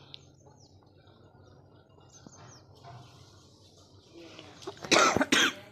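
Birds chirping faintly in the background, then a loud, brief burst of noise about five seconds in.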